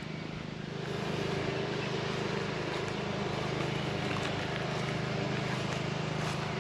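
An engine running steadily with a low, even hum, growing a little louder about a second in.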